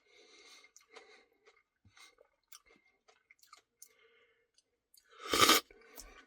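Close-miked wet chewing and lip-smacking of a cookie dough Blizzard, faint soft clicks scattered throughout, with one much louder half-second mouth noise about five seconds in.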